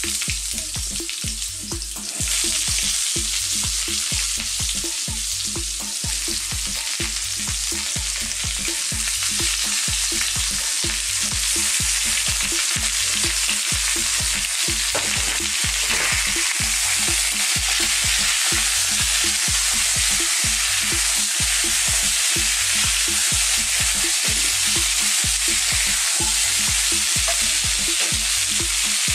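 Sweet potato chunks frying in hot sunflower oil in a wok over a high gas flame: a steady, hissing sizzle that grows a little louder during the first ten seconds or so as more chunks go into the pan.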